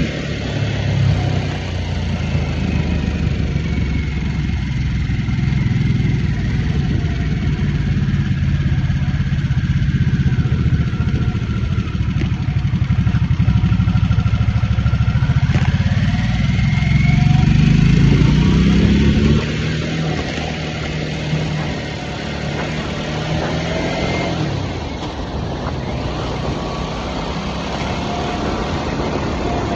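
2023 Harley-Davidson Nightster's Revolution Max V-twin running while the bike cruises. Past the middle the engine note climbs under throttle, then drops off suddenly as the throttle is closed, and it runs on at a lower pitch.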